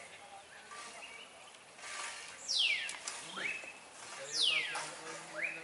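A bird calling twice, about two seconds apart: each call is a loud, sharp downward sweep followed by a short rising note. Fainter chirps from other birds run underneath.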